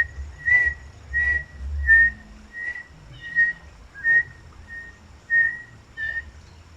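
Rüppell's robin-chat singing a series of about ten short whistled notes on one pitch, each dipping slightly, evenly spaced at a bit over one a second, over a low rumble.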